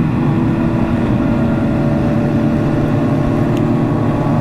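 Motorcycle engine running at steady cruising revs, with wind rushing past at highway speed.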